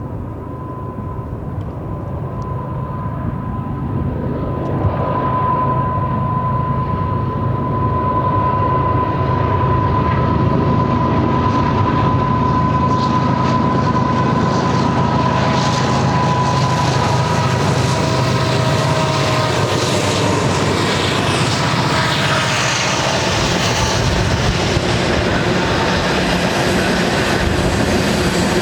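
Union Pacific freight train approaching and passing: the diesel locomotives' running grows louder over the first few seconds, then the train keeps rolling past steadily, with more wheel and car rattle in the second half.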